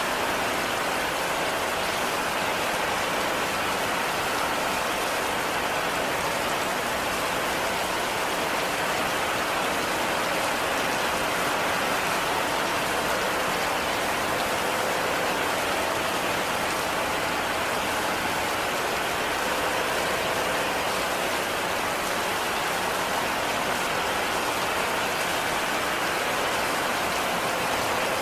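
Steady heavy rain falling on a roof, an even, unbroken hiss of drops.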